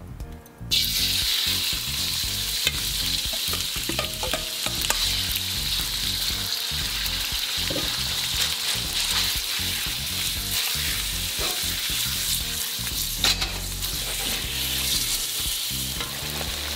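Diced raw chicken dropped into hot oil in a steel wok, setting off a sudden sizzle less than a second in that carries on steadily, with a few scattered clicks as a metal spoon stirs it.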